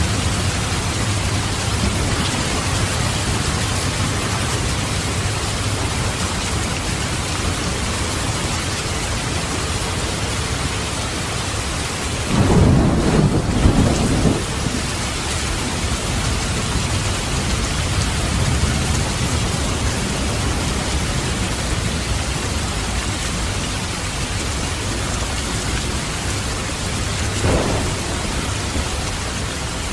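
Steady heavy rain with rolling thunder rumbling underneath, swelling into a louder thunder roll about halfway through and a shorter one near the end.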